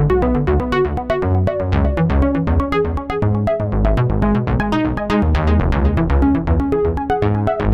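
Background music: a home-recorded instrumental of sequenced drums with a steady beat, keyboards and fretless electric bass.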